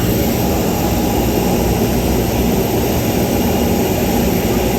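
Airliner jet engines running steadily: an unbroken low rumble with a faint high whine over it.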